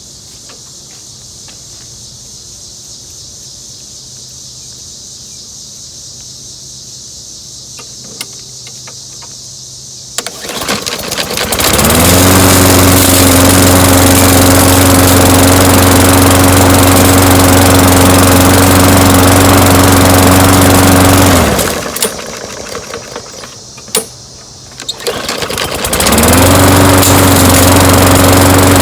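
Walk-behind lawnmower engine, its carburetor just cleaned of debris, pull-started: it catches at once and runs at a steady speed for about ten seconds, shuts off, then is pulled again and runs steadily once more.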